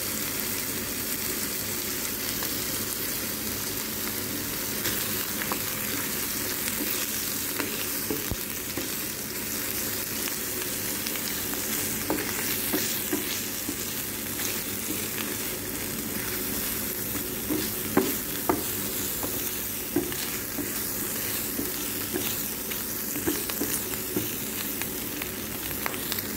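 Diced smoked turkey slices sizzling steadily in olive oil in a nonstick frying pan, with scattered taps and scrapes of a wooden spatula as they are stirred.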